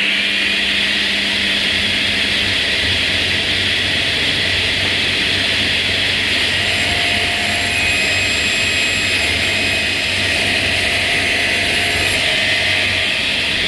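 Electric woodworking power tool running steadily at full speed, its motor having just spun up.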